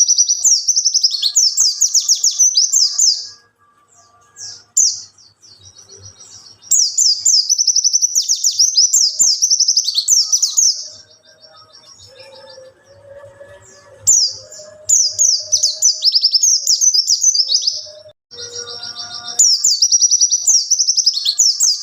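Wild white-eye (pleci) singing: fast, high twittering warbles in phrases of three to four seconds, broken by short pauses.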